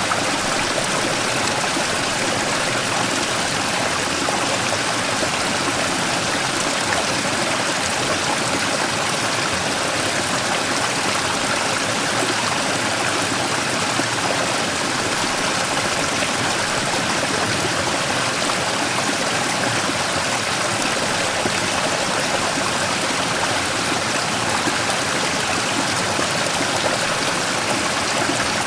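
Mountain stream tumbling over and around a large rock, a steady rushing and splashing of water with no let-up.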